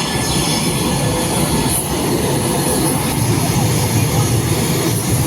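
JAS 39 Gripen fighter's single Volvo RM12 turbofan engine running, a loud, steady rushing noise with faint high whines over it.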